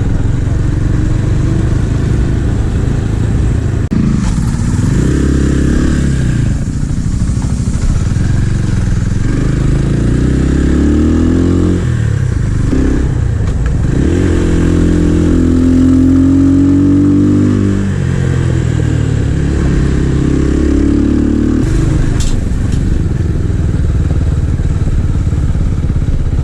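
Minsk SCR 250 motorcycle engine under way, its pitch rising and then dropping several times as it accelerates and shifts through the gears.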